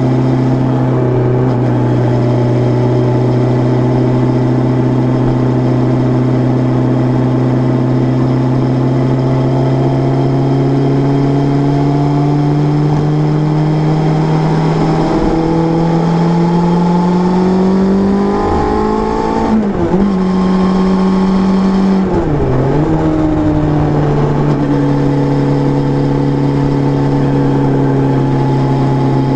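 Suzuki Bandit 600's inline-four engine running with a steady note. The note climbs slowly from about a third of the way in, dips sharply twice around two-thirds of the way, then settles back to the same steady note.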